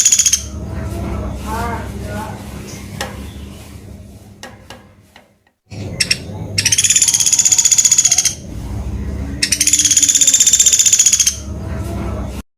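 Pelatuk beras (sampit) bird calling in buzzing, rapidly pulsed high trills of about two seconds each: one ends just after the start and two more come in the second half. A low steady hum lies under them.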